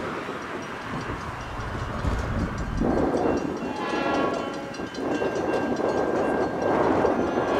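Diesel-hauled commuter train running by: a low rumble, then surging train noise from about three seconds in, with a cluster of steady tones about four seconds in and a single high steady tone after it.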